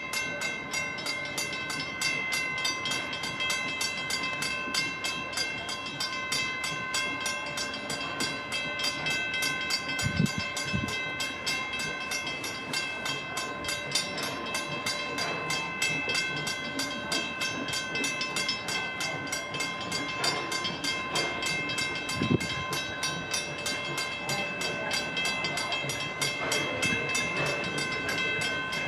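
Steam train hauled by the 1873 Mason-built Torch Lake locomotive running along the track, with a fast, even clicking and a steady high-pitched ring. A few low thumps come about ten seconds in, and again past twenty seconds.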